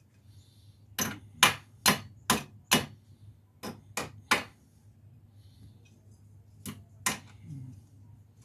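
A run of sharp knocks, like hammer blows while fitting wheel-bearing parts: five quick strikes about a second in, three more near the middle, then two near the end.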